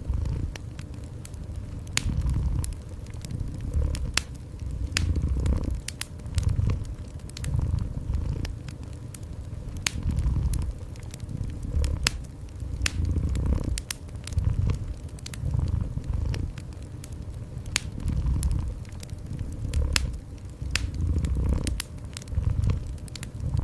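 Cat purring in low, rhythmic swells about every second and a half, over a wood fire crackling with frequent sharp pops.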